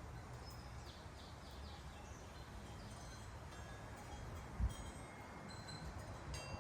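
Wind chimes tinkling and a small bird chirping a quick run of about four short high notes, over a low background rumble, with one soft thump about four and a half seconds in.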